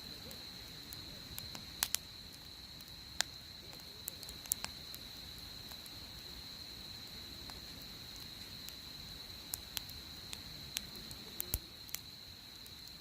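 Wood campfire crackling in a fire pit, with irregular sharp pops and snaps, a pair of louder ones about two seconds in and a cluster near the end. A steady high-pitched whine runs under it throughout.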